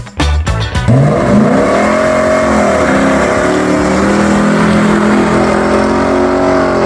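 A car engine revs up about a second in and holds at high revs, its pitch wavering slightly. The last moments of upbeat music play before it.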